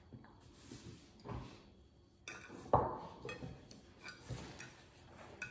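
Ceramic dishes and utensils knocking and clinking on the table: a few separate knocks, the loudest about two and a half seconds in with a short ring.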